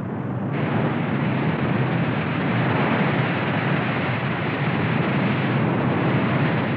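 A loud, steady roar of noise with no distinct tones, swelling slightly about half a second in: a documentary sound effect of the earth's violent forces.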